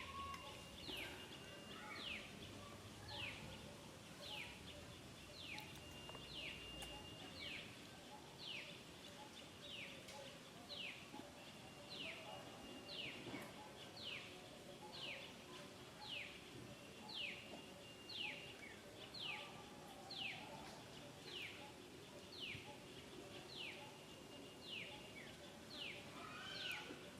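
A bird calling over and over: a short high note sliding downward, repeated steadily about every two-thirds of a second, with a thin held whistle between some of the notes. Faint, over quiet outdoor background.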